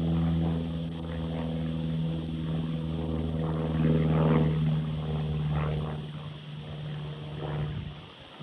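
Aircraft passing over, its engine giving a steady pitched drone that is loudest about four seconds in and fades near the end.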